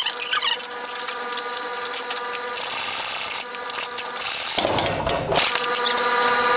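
A power tool's motor running with a steady whine while undoing a sway bar end link nut.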